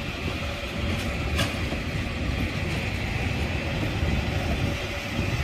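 Matterhorn Gotthard Bahn metre-gauge passenger coaches rolling past close by, a steady rumble of wheels on the rails with a sharp click about a second and a half in.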